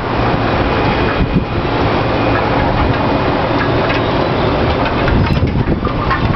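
Strong wind gusting and buffeting the microphone: a loud, continuous low rumble with a hissing haze over it.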